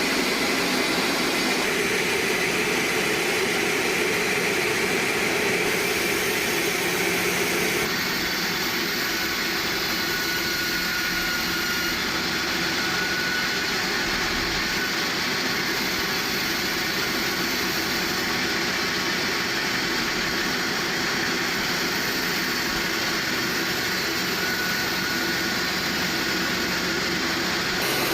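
Sawmill machinery running with a steady, loud mechanical noise, its character shifting abruptly about eight seconds in.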